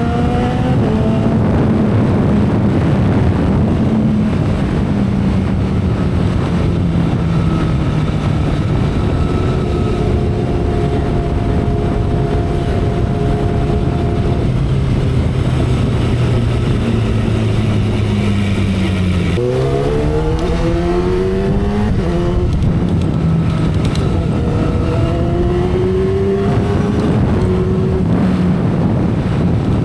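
2012 Kawasaki Ninja ZX-10R's inline-four engine running at expressway speed over steady wind noise. The engine note sinks slowly, holds low and steady, then about two-thirds of the way in the revs jump and climb quickly before settling into a steady cruise.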